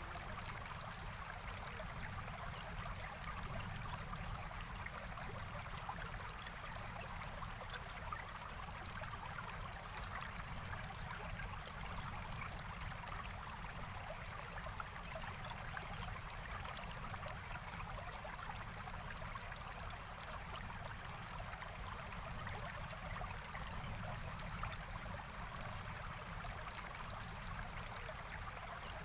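Forest stream flowing, a steady rushing and trickling of water.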